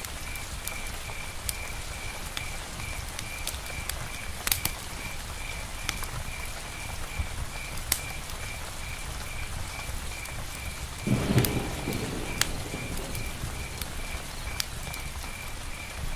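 Rain falling on a tent roof, a steady hiss with scattered sharp drips, and an even high chirp repeating about three times a second throughout. About eleven seconds in, a brief low rumble of thunder.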